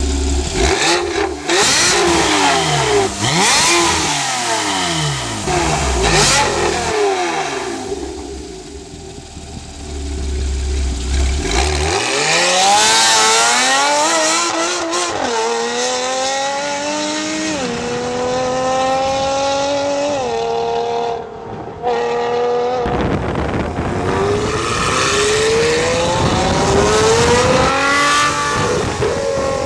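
Porsche 997 PDK's flat-six engine through an iPE aftermarket exhaust: a run of quick free revs, each rising and falling sharply, then hard acceleration with the pitch climbing and dropping at each quick gear change, and another climb near the end.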